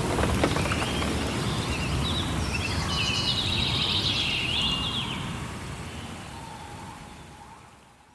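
Rain forest ambience: a steady wash of rain-like noise with a few sharp drip clicks at the start. Birds chirp in quick sliding calls from about two and a half to five seconds. The whole sound then fades out steadily towards the end.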